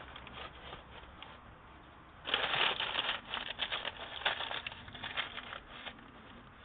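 Newspaper crinkling and rustling, loudest for about three seconds from a little after two seconds in, as a hand works around it.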